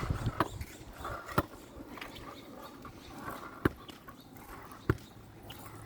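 Kick scooter's front wheel knocking back down onto wet pavement during wheelie attempts: four sharp knocks, the first two about a second apart and the last two about a second apart, over the low rolling noise of the wheels.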